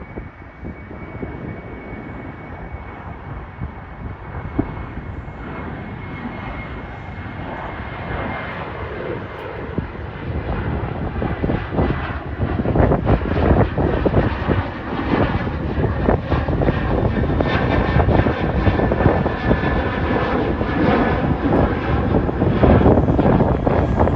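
Jet airliner departing, its engine roar building steadily louder, with a thin steady whine near the start and a crackling rumble in the second half.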